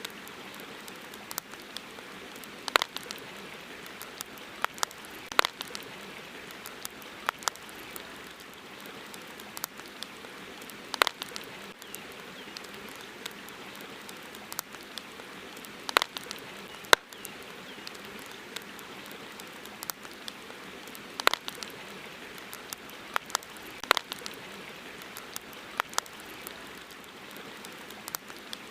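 Campfire crackling: irregular sharp pops and snaps, a few every few seconds, over a steady hiss.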